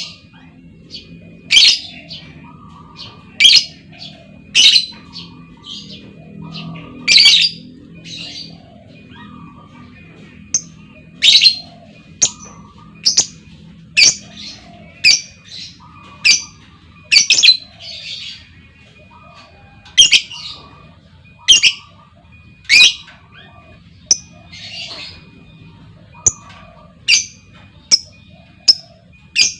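Female lovebird calling: short, loud, high-pitched calls repeated every second or two, with softer chatter between them.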